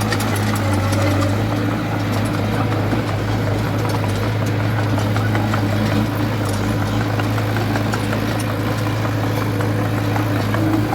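Heavy construction machine's diesel engine running steadily at a constant, low-pitched note.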